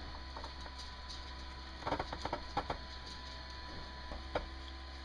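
A quick cluster of light clicks and taps about two seconds in and a single click near the end, like small metal parts being handled on a workbench, over a steady low electrical hum.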